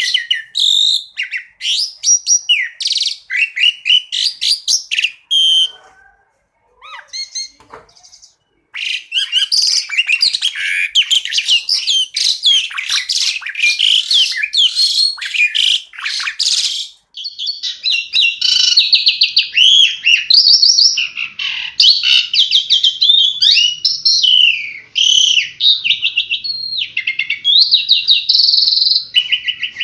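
Asian pied starling (jalak suren) singing a varied song of fast chattering notes, whistles and rapid trills. There is a pause of about three seconds starting around six seconds in.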